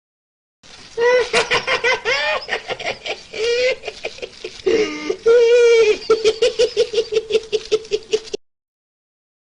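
High-pitched laughter as a long run of quick ha-ha pulses, starting just under a second in and cutting off abruptly.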